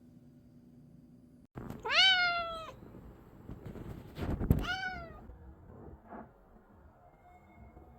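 A house cat meowing twice: one long meow that rises and then falls, and a shorter one a couple of seconds later, with a low thump around the second.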